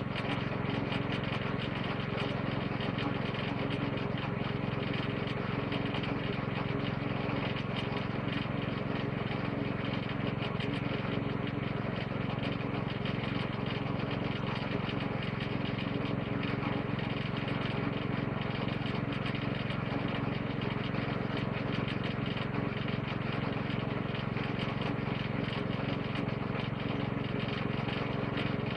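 Small engine of a woodchipper-shredder idling steadily, with an even, unchanging hum and no load on the shredder.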